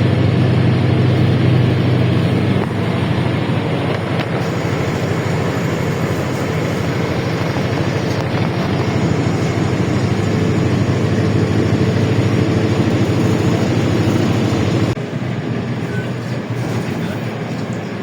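Inside a moving LiAZ-677M bus: the low steady drone of its V8 petrol engine mixed with road noise and body rattle. About fifteen seconds in, the engine drone drops away suddenly, leaving mostly rolling and rattling noise.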